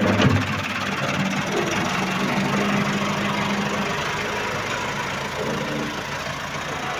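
Tractor diesel engine running steadily, with a low steady hum through the first half.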